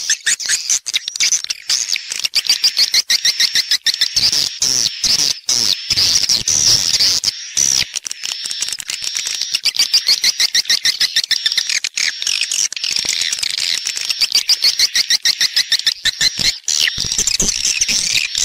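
Swiftlets twittering in a dense, continuous chatter of rapid high chirps and buzzy trills. This is a swiftlet roosting-call lure recording of the kind played to draw edible-nest swiftlets into a nest house.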